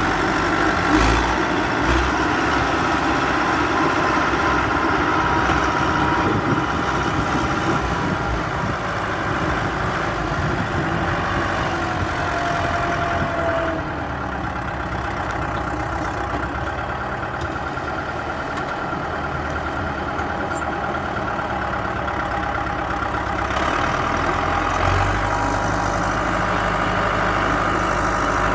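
Bulldozer's diesel engine running steadily, a little softer in the middle, with a deeper low drone coming in near the end.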